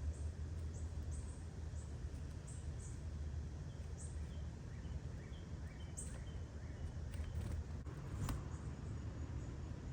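Small birds giving short, high chirps every second or so over a steady low background rumble, with a few softer, lower chirps in the middle and a single sharp click near the end.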